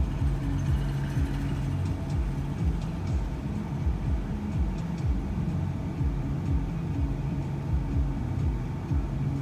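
Low, steady rumble of a van on the road heard from inside the cabin, with frequent small low thuds from the road surface.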